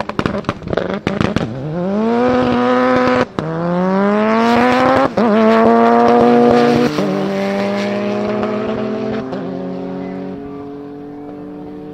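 Tuned Porsche 993 GT2's twin-turbo air-cooled flat-six launching hard from the line with a burst of rapid crackling. It then revs up through the gears, the pitch climbing and dropping briefly at two upshifts. Near the end it holds a steadier note that slowly fades as the car pulls away down the strip.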